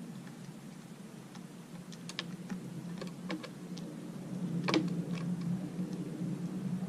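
Scattered light clicks and taps at irregular intervals, the loudest about two-thirds of the way through, over a steady low hum.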